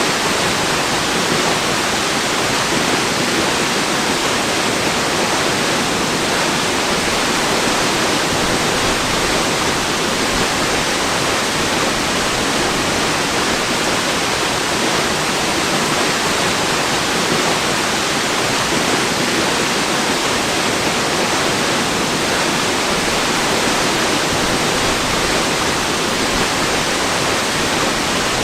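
A waterfall's steady rush of falling water, an even, unbroken noise that holds at the same level throughout.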